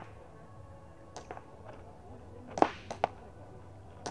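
A few sharp cracks from an airsoft gun firing: a pair a little over a second in, then a louder shot about two and a half seconds in followed by two quicker ones.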